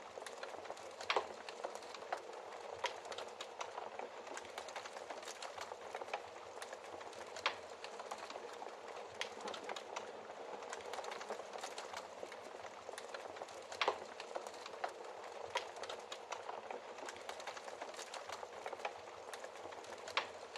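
Wood fire crackling steadily in a fireplace, with frequent small snaps and a few louder pops.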